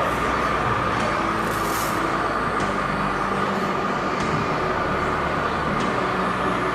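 Radio-controlled scale truck running, a steady high whine over a rough, noisy rumble.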